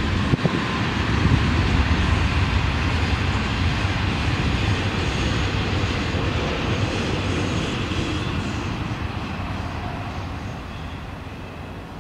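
Freight train cars rolling past, a steady rumble of wheels on rail that fades over the last few seconds as the tail of the train goes by.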